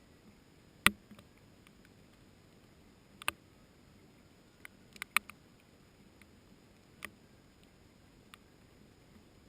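Large raindrops or drips landing one at a time close by: scattered sharp taps at irregular intervals, about eight in all, the loudest about a second in, over a faint steady hiss of rain.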